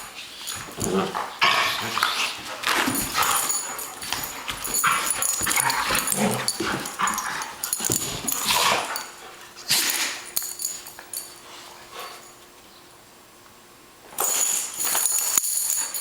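Dogs making noises as they play rough together: irregular growls and whimpers. It goes quieter for a few seconds, then a loud burst of noise comes near the end.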